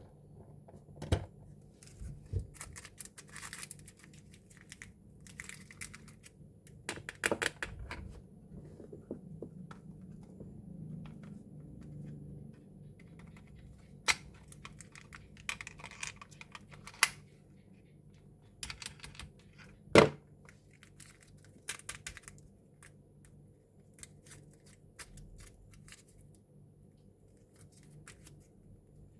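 Small plastic toy pieces being handled and set down: scattered sharp clicks and taps, the loudest about two-thirds of the way through, with short bouts of rustling and crinkling from plastic packaging.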